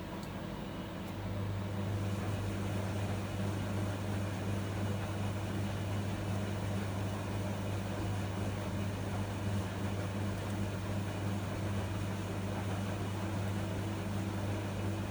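Miele MedicWash W2585 washing machine running, with a steady low hum that starts about a second in and stops near the end.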